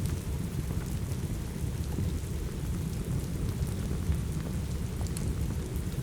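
Steady rain ambience with a deep, even rumble underneath and faint scattered crackles from a fireplace.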